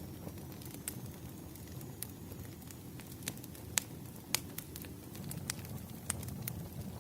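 Wood fire crackling: irregular sharp pops and snaps, a handful of them louder about halfway through, over a steady low rumble of burning logs.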